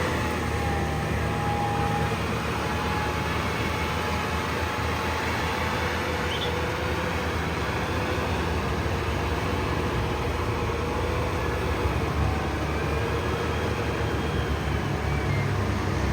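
A steady engine drone with a constant low rumble and no clear changes in speed.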